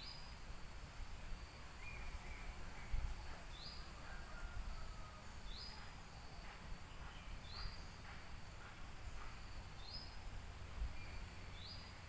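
Woodland ambience: a bird repeats a short, high rising note about every two seconds, with fainter chirps from other birds and a low rumble underneath.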